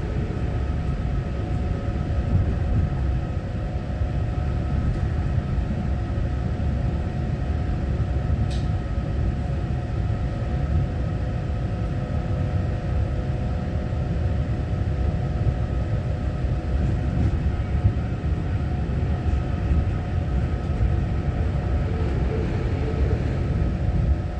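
Inside the car of a Taiwan Railway EMU900-series electric multiple unit: a steady low rumble with several steady electrical hums over it. A brief tick about eight seconds in.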